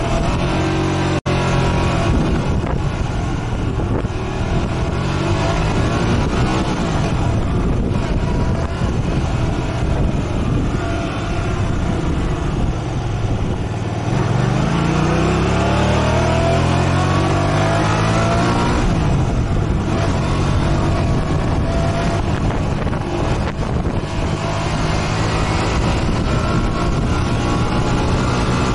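Motorcycle engine running under way, its pitch rising and falling as the revs change, with a long climb in revs about halfway through. The sound cuts out for an instant about a second in.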